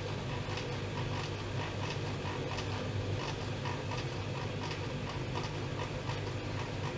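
Privileg Dynamic 7420 washing machine running: a steady motor hum under a quick, regular swishing, about two to three swishes a second.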